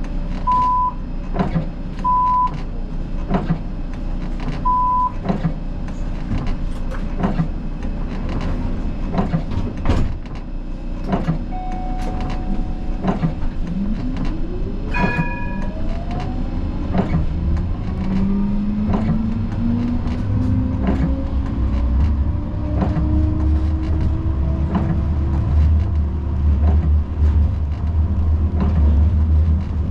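Siemens Combino tram heard from the cab: three short beeps and regular ticking, then from about halfway the traction motors' whine rising in pitch as the tram accelerates, with a growing low rumble of wheels on the rails.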